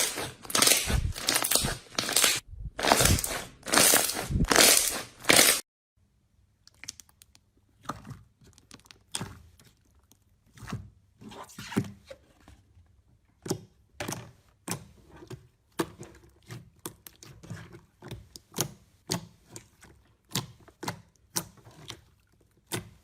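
Slime being squeezed and pressed by hand: loud crunchy crackling presses about twice a second for the first six seconds, then it cuts to quieter, scattered clicks and pops.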